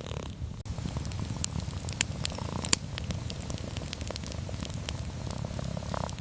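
A cat purring steadily, with a wood fire crackling over it and a few sharp pops, the loudest about two seconds in and again just after.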